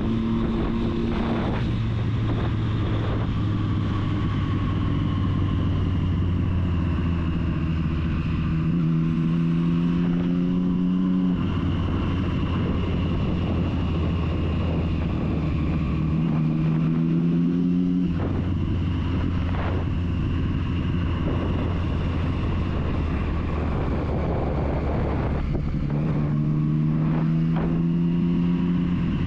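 Triumph Street Triple's three-cylinder engine running while riding, its note stepping up and down in pitch several times, over wind rushing past the microphone.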